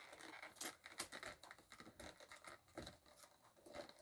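Faint scratching and small clicks of fingers working at a cardboard blind box's packaging, trying to open its pull tab.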